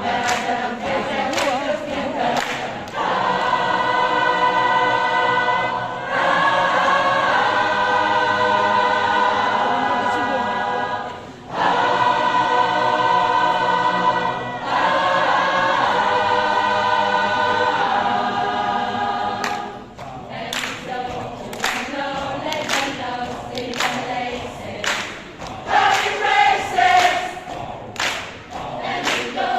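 Mixed choir singing, mostly a cappella: long held chords, with a brief drop about eleven seconds in. From about twenty seconds in, the singing turns rhythmic over sharp percussive clicks keeping time.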